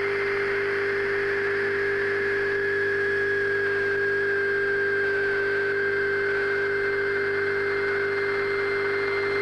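Steady electrical transformer hum layered with a hiss of static. A thin high whine sits over them, sags slightly in pitch through the middle and rises back near the end.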